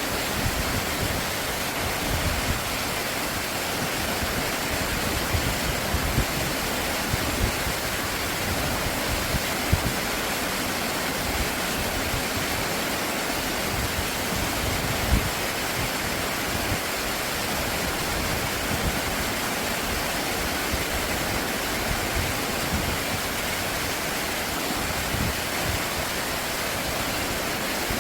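Stream water rushing steadily over rocks, an even continuous flow, with a couple of brief light knocks partway through.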